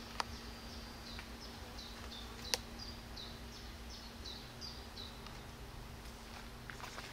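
A songbird repeating short, high, down-slurred notes about three times a second for several seconds, then stopping. Two sharp clicks come a little after the start and about two and a half seconds in, over a steady faint low hum.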